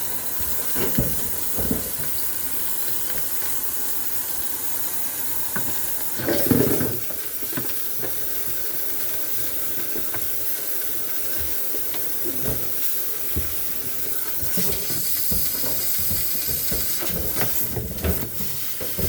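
Steady hiss of a defrosting tool blowing onto ice frozen inside a refrigerator, with a few short knocks, the loudest about six and a half seconds in.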